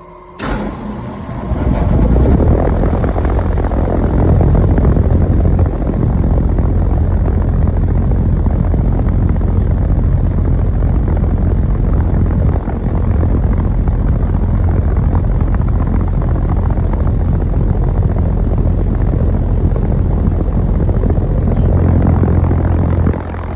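Outdoor air-conditioner condenser unit starting up. The compressor and fan kick on suddenly and build up over about two seconds, then run steadily with a strong low hum under a rush of fan air.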